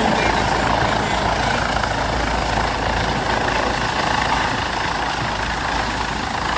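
Helicopter running, a loud steady engine and rotor drone with a constant low hum.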